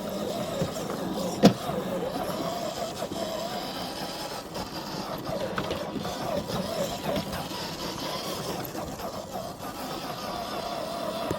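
Electric motor and gear drivetrain of an FMS FJ40 radio-controlled crawler whining as it crawls, the pitch wavering up and down with the load. A single sharp knock about a second and a half in.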